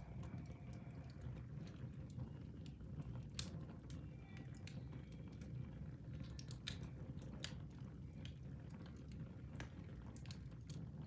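Wood fire burning in a fireplace: a steady low rumble of flames with scattered sharp crackles and pops, the loudest about three and a half seconds in.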